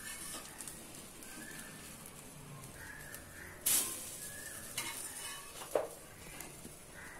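Egg-dipped bread slices sizzling on a flat metal griddle (tawa) while a metal spatula turns them. A sharp scrape of the spatula on the pan comes about halfway through, followed by a couple of lighter clicks.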